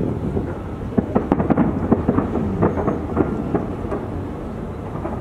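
Fireworks going off: a rapid run of sharp bangs and crackles between about one and three and a half seconds in, over a continuous rumble of booming bursts.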